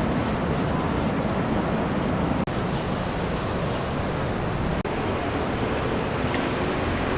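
Steady roar of Niagara Falls' rushing water, a loud, even rush with no rhythm, broken twice by short cuts.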